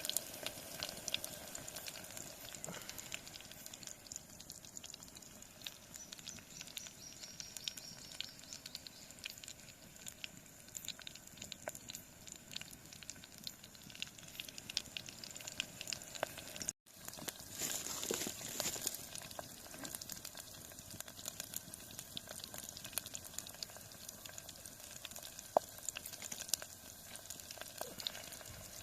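Flank steak sizzling over a wood campfire, with the fire's scattered crackles and pops. The sound breaks off for an instant about two-thirds through, then goes on.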